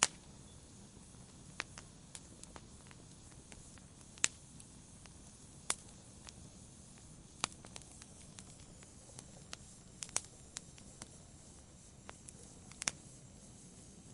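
Wood fire crackling in a fireplace: sharp, irregular pops and snaps over a faint steady hiss.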